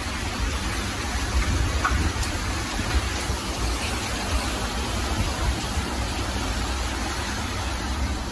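Heavy wind-driven rain falling steadily, with gusty wind rumbling on the microphone.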